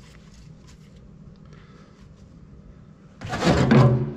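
Steel pivot pin of a tractor's hydraulic stabilizer cylinder being worked in its bore, with faint clicks of handling and then a loud, pitched metal-on-metal groan for about a second, about three seconds in.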